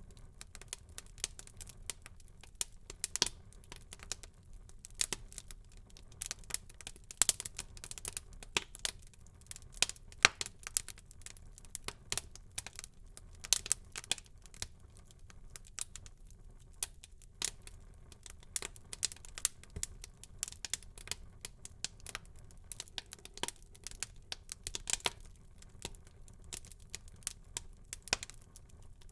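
Wood fire burning in a fireplace, crackling with many irregular sharp pops and snaps over a faint low rumble.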